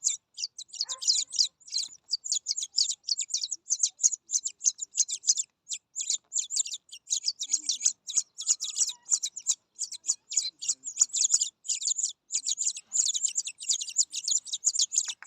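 Nestling birds begging with rapid, high-pitched chirps in dense runs broken by a few brief pauses, the calls of chicks being hand-fed.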